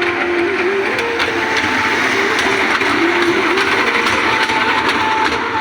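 Train running along the track: a steady, loud rush of rolling noise with light clicks and a faint wavering whine.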